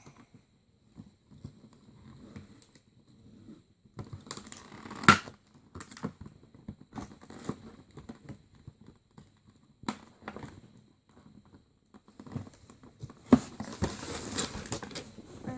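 Toy packaging and plastic playset parts being handled during unboxing: rustling and crinkling with scattered clicks and knocks, a sharp click about five seconds in and another a couple of seconds before the end, followed by a stretch of denser crinkling.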